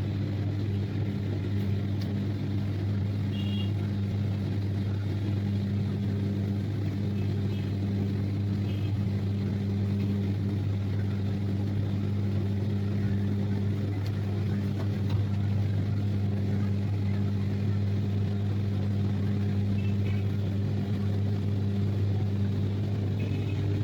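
Washing machine running, a steady low hum that holds at one pitch throughout.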